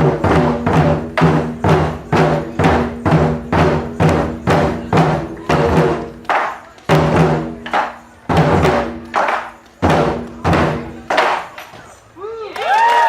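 Large drums struck hard in a steady, fast beat, each stroke booming and ringing. After about six seconds the strokes come further apart and stop near the end, when voices cheer briefly as the piece finishes.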